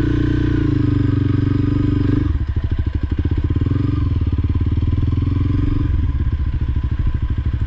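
Honda CRF300L's single-cylinder four-stroke engine running at low revs, its note easing off about two seconds in and picking up again between four and six seconds.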